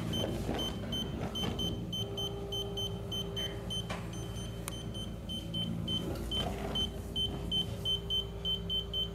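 Blomberg Smartouch dishwasher beeping over and over, about three high beeps a second without stopping, while its motor hums steadily underneath. This is a malfunction: the machine is going crazy.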